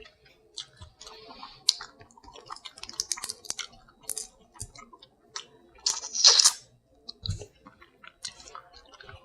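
Close-miked chewing and wet mouth smacking while eating boiled crab, with short crackles and clicks as the shell is picked apart. A louder crackling burst comes about six seconds in.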